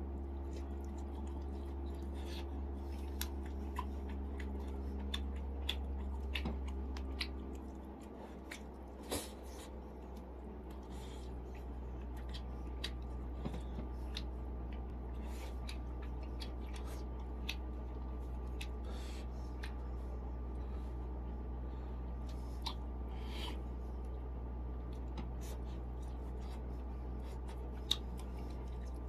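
Close-up eating sounds: a person chewing and biting steamed chicken, with many short, irregular clicks and smacks over a steady low hum.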